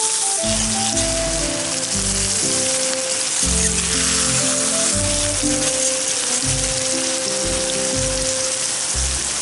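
Meat sizzling steadily as it fries in oil in a pan, with background music playing.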